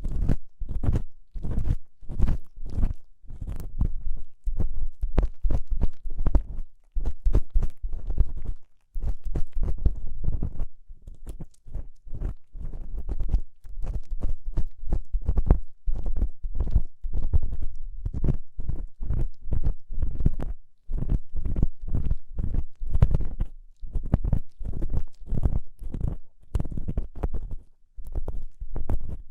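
Ear-cleaning tool scraping and rubbing inside an ASMR microphone's ear: quick runs of close, scratchy strokes with brief pauses, each stroke carrying a heavy low rumble from contact with the microphone.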